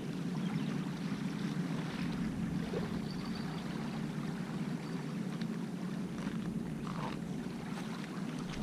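A boat's motor running steadily as a low hum, with a few faint clicks over it.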